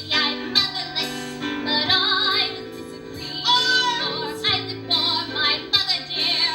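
A female voice singing a musical-theatre song over instrumental accompaniment, with a long held note sung with wide vibrato about halfway through.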